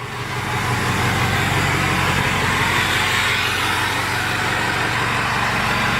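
2005 Ford 6.0 Powerstroke V8 turbodiesel idling steadily through a 4-inch turbo-back straight-pipe exhaust.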